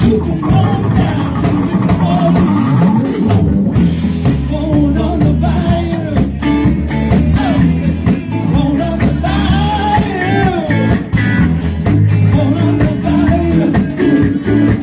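Live rock band playing, with drums, bass and a melodic lead line that bends up and down in pitch.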